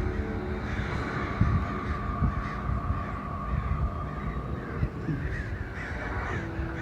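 A large flock of black birds calling overhead: many harsh, overlapping calls at once, over a steady low rumble.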